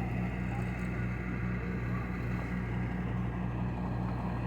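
An engine idling with a steady low drone.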